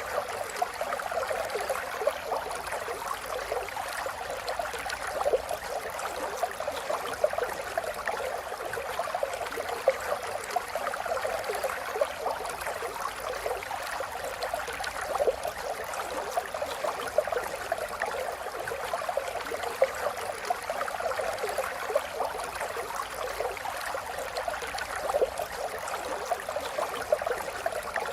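River water flowing steadily, a continuous babbling and gurgling with small irregular splashes.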